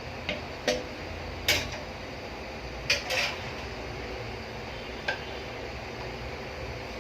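Metal cookware clinking: a pot and its lid knock together several times as the biryani pot is covered for dum cooking. The loudest clink comes about a second and a half in, and a steady hiss runs underneath.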